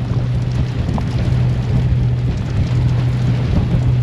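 A yacht's engine running steadily at near 2,000 rpm, a constant low hum, under wind and rain noise.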